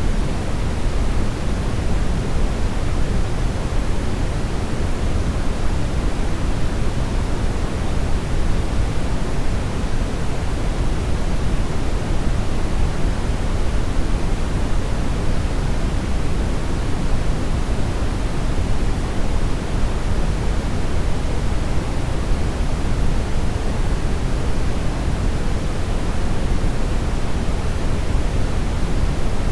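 Steady synthetic brown noise: an even, unchanging rush of noise weighted toward the low end, with no events or changes.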